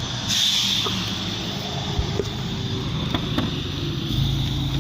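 Steady background engine hum with a few light clicks and knocks. A deeper low rumble comes in near the end.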